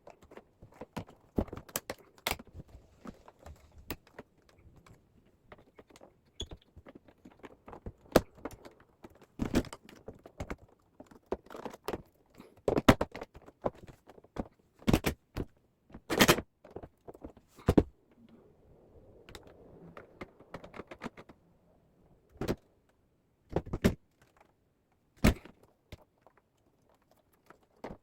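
Irregular clicks, knocks and rattles of hard plastic parts being handled, from work on a wall-mounted air conditioner, with quieter rustling in between.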